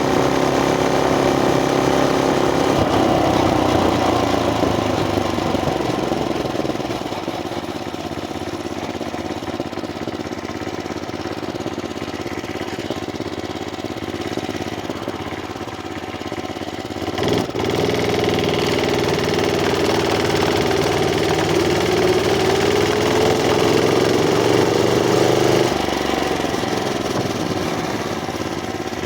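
Murray Track 2 mini bike's small engine running under riding, the revs falling early on, then climbing steadily for several seconds before dropping sharply as the throttle comes off. A single sharp knock sounds just before the long climb.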